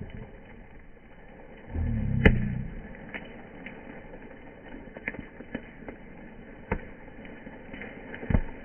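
Bonfire burning with irregular sharp pops and crackles from the wood, the loudest pop a little over two seconds in. A brief low rumble sounds around two seconds in.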